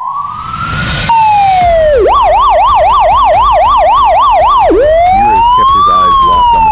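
Electronic police siren, alternating a slow rising-and-falling wail with a fast yelp of about three to four sweeps a second in the middle.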